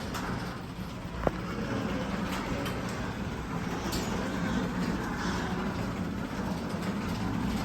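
Linear garage door opener running, its motor humming steadily as it drives the door open, with one sharp click about a second in.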